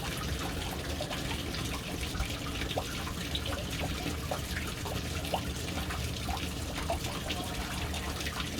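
Water falling steadily into a household water storage tank (caixa d'água), a continuous splashing stream with many small scattered droplet and bubble plops.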